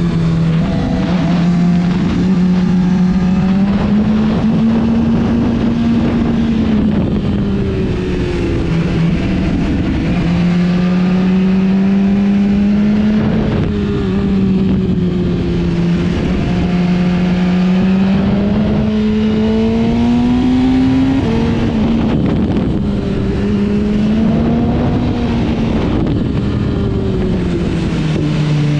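Motorcycle engine running hard on a racetrack, its note swinging up and down as the rider works the throttle through corners, with a few sudden drops in pitch at gear changes. A steady rush of noise runs underneath.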